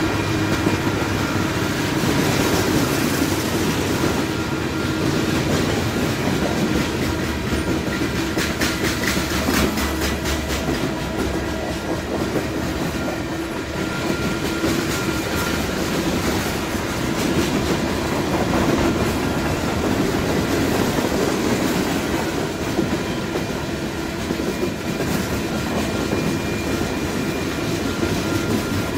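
Freight train of boxcars, lumber-laden centerbeam flatcars and tank cars rolling past at speed: a steady rumble of steel wheels on rail, with clickety-clack over the rail joints.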